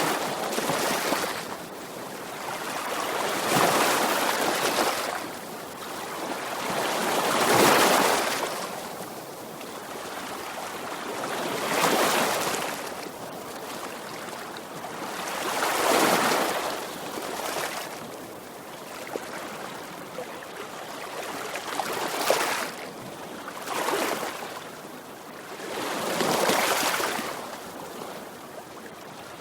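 Ocean waves breaking and washing onto the shore, in slow surges that swell and fade every few seconds.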